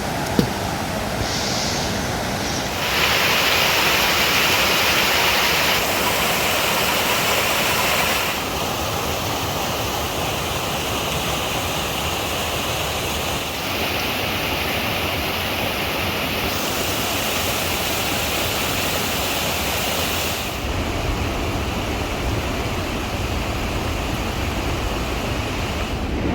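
Steady rain falling, a dense hiss that shifts in tone and level abruptly several times, with one short knock about half a second in.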